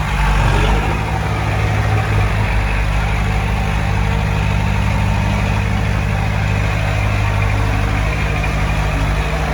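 Heavy construction machine's diesel engine running steadily, with a deep, even drone.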